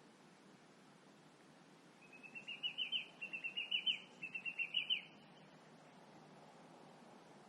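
A songbird singing a fast run of short, repeated notes in three quick groups, from about two seconds in to about five seconds in, over a faint steady background hum.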